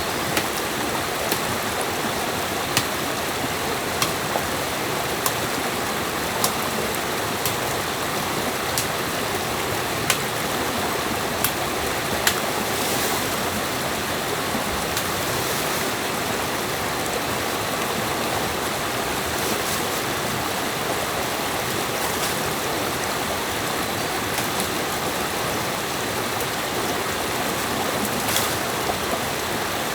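Flowing stream water rushing steadily, with short sharp clicks about once a second through the first part.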